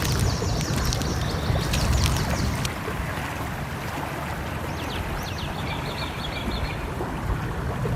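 Steady low rush of a flowing stream, with small birds chirping in quick series about a second in and again around the middle. A few sharp crackles come in the first three seconds.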